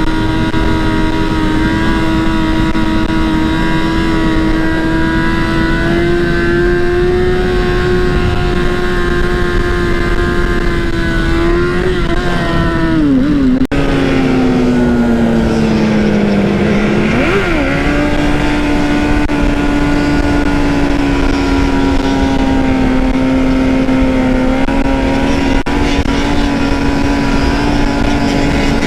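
Dirt bike engine running steadily while riding. About twelve seconds in the pitch eases down, then a quick rev blip comes a few seconds later before it settles back to a steady cruise.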